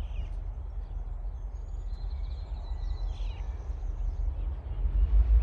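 Faint bird chirps and a thin whistle over a steady low rumble. The rumble grows louder about five seconds in as the diesel-hauled coal train approaches.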